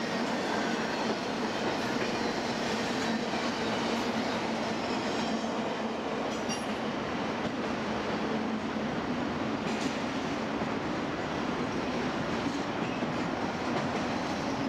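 Freight train's double-stack container cars and autoracks rolling past: a steady rumble of steel wheels on the rails, with a few faint clicks.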